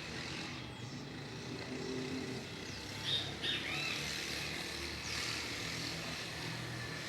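A few short bird chirps about three seconds in, over a steady low rumble of vehicle traffic.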